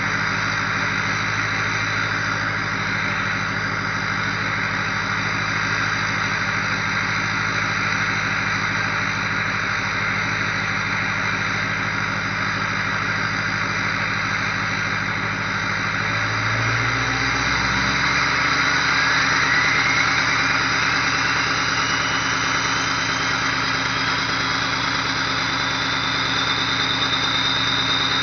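2004 Ford F-250's 6.0L Power Stroke V8 turbodiesel idling after a 15°F cold start without the block heater plugged in. About two-thirds of the way through it kicks up to high idle, and a turbo whistle rises steadily in pitch over several seconds, then holds high and grows stronger near the end.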